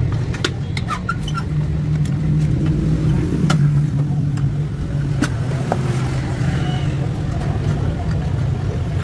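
A steady low mechanical hum, like a running engine or motor, with light clicks and taps scattered through it.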